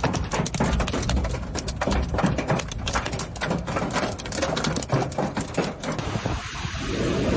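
Hail falling hard, a dense irregular clatter of hailstones striking hard surfaces. About six seconds in it gives way to a steady rushing noise.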